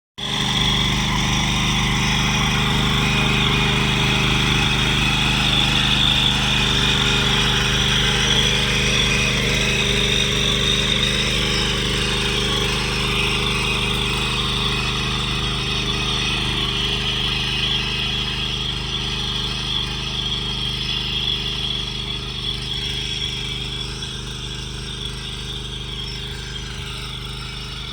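Small petrol engine of a mini power weeder (power tiller) running steadily at speed, with a high whine over the engine note, getting gradually quieter over the last several seconds.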